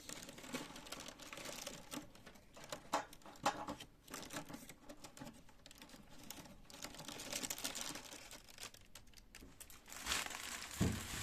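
Packaging crinkling and rustling as it is handled, with many small irregular clicks and light knocks.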